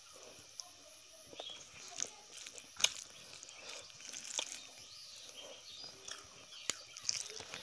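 Close-miked chewing and mouth sounds of a person eating rice and vegetables by hand: scattered wet clicks and lip smacks, the sharpest about three seconds in.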